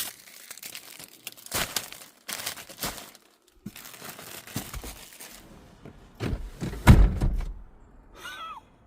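Crinkling and tearing handling noises with irregular knocks, and a heavy thud about seven seconds in. Near the end comes a short wavering squeak.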